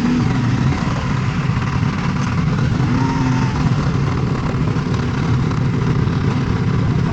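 Motorcycle running steadily under way, its engine sound mixed with a dense, even rushing noise of wind and road.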